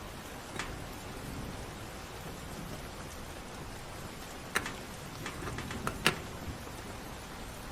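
Steady heavy rain falling, with a few sharp clicks or knocks: one early, then a cluster about four and a half to six seconds in, the loudest just after six seconds.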